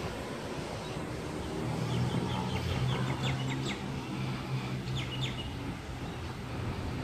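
Low steady hum of an electric suburban train approaching, growing from about a second and a half in, with birds chirping in quick falling notes over it.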